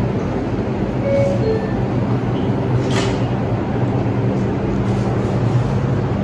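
New York City subway 4 train (R142/R142A) running at the station after its doors close: a steady low rumble and hum, with one sharp click about three seconds in.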